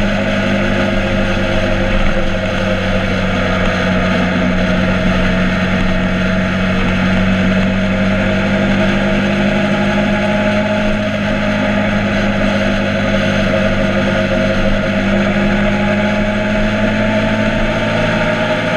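Motorcycle engine running steadily at an even pitch, with a hiss of noise over it.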